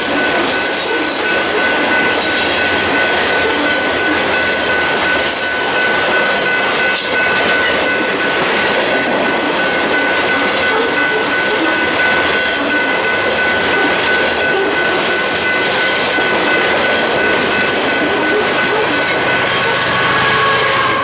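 Train cars rolling past at close range: a steady rumble of wheels on rail, with a high, steady wheel squeal and occasional clicks from the rail joints.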